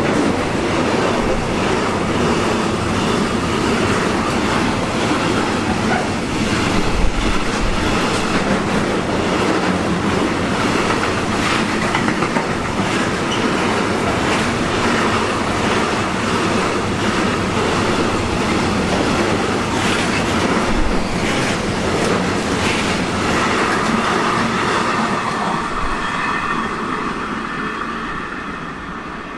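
Train running past, its wheels clattering over the rail joints for more than twenty seconds, then fading away near the end.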